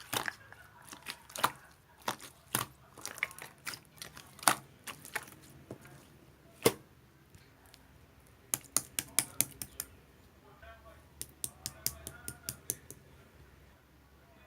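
A series of sharp clicks and taps, scattered at first, then two quick runs of about half a dozen clicks each in the second half.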